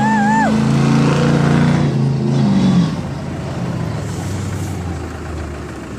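Monster truck engine running loud, rising in pitch as it revs, then dropping away and fading about three seconds in as the truck pulls off. A loud, high warbling tone sounds at the start and stops about half a second in.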